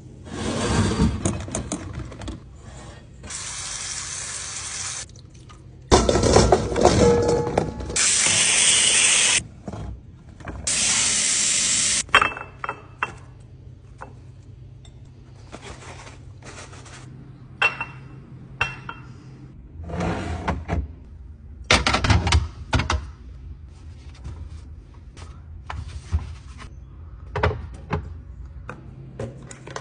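Kitchen tap running in three bursts of several seconds each, as for rinsing produce, followed by scattered clicks and knocks of items being handled.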